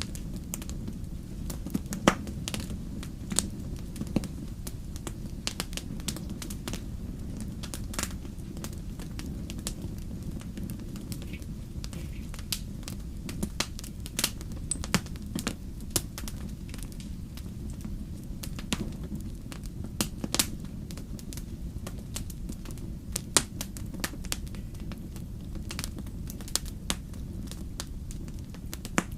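Wood burning in a fireplace: a steady low rumble with irregular sharp crackles and pops, a few of them louder.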